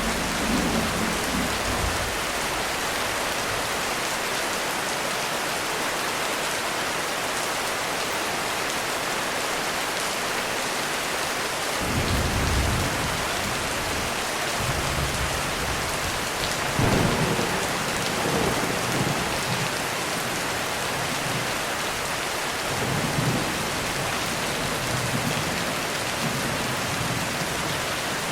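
Heavy rain falling steadily on a roof, with low rolls of thunder. One roll dies away in the first two seconds, another comes about twelve seconds in, a longer one a few seconds later, and a weaker one about twenty-three seconds in.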